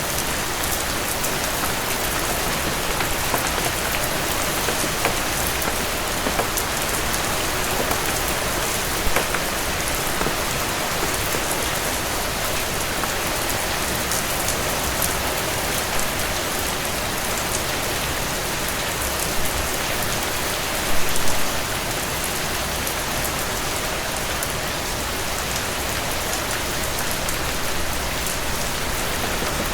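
Heavy rain falling steadily on a cabin porch, a dense even hiss with scattered sharp ticks and pops. A brief cluster of louder pops comes about 21 seconds in.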